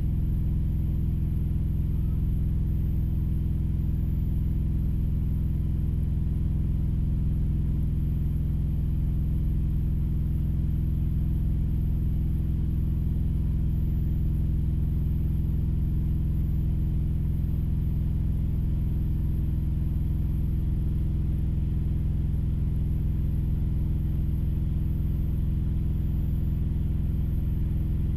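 Steady low rumble of an idling engine, heard from inside a truck cab, unchanging throughout.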